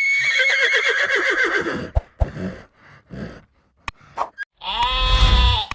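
Horse whinnying: one long quavering neigh that falls in pitch, followed by a few short breathy snorts. Near the end a bleat begins, a goat or sheep call of about a second.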